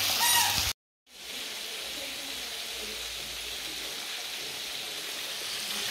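Chicken frying in hot oil: a steady, even sizzle. It cuts out for a moment just under a second in, then comes back and carries on.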